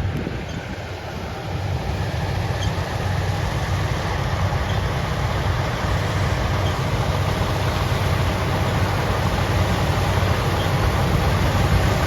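Heavy harvesting machinery running steadily, a constant low engine drone with a wide rushing noise over it, getting a little louder after about two seconds.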